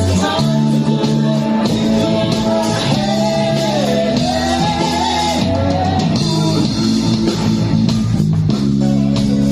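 Rock band playing a song with a sung melody over guitar, bass and drum kit.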